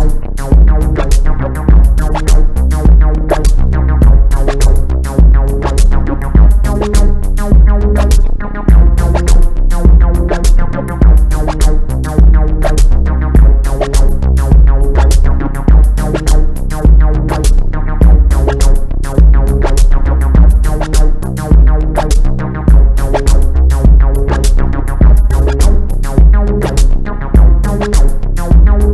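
Electronic music from a UNO Drum drum machine and a synthesizer: a steady, repetitive beat with a deep bass pulse and rapid ticking hi-hats under sustained synth tones.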